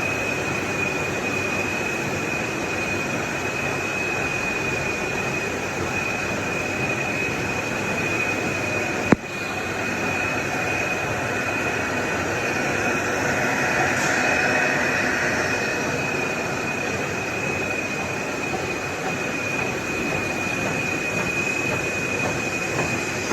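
Sticker label cutting machine running steadily, a constant mechanical noise with a high, steady whine over it. A single sharp click about nine seconds in.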